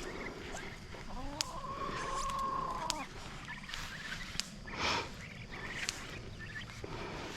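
Backyard poultry: one drawn-out call that rises, holds and falls, lasting about two seconds from about a second in, with scattered light clicks and a short rustling burst near the middle.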